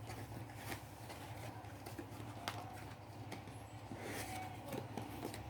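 Scattered light taps and clicks of paper and card being handled, over a steady low hum.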